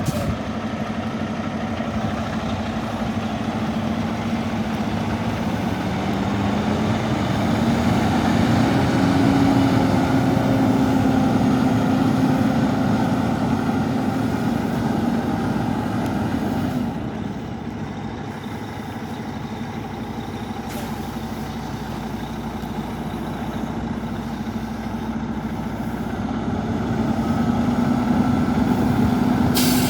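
Cummins X15 diesel engine of a Volvo VNL truck tractor running. Its speed rises about a quarter of the way in, holds, drops back about halfway through, and climbs again near the end. A short sharp noise comes right at the end.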